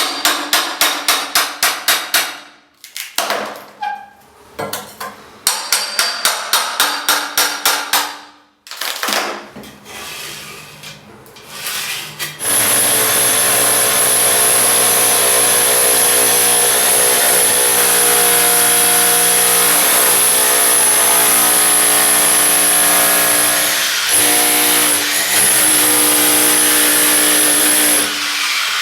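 Plaster being stripped off a brick wall: rapid striking at about five blows a second in short runs, then from about twelve seconds in a power tool runs steadily with a high whine.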